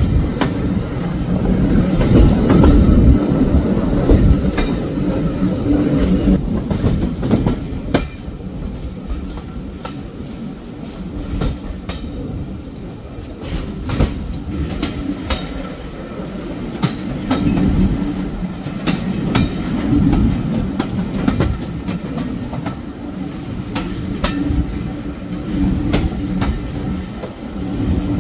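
Train running along jointed track: a steady rumble and hum, with the wheels clicking over the rail joints. It is loudest in the first few seconds, eases off in the middle, then swells again.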